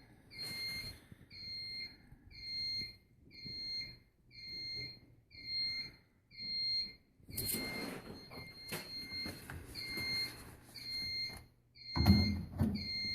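Alarm system beeping steadily, a single high beep about twice a second. From about halfway through, a louder rush of noise runs beneath it, and there is a heavy thump near the end.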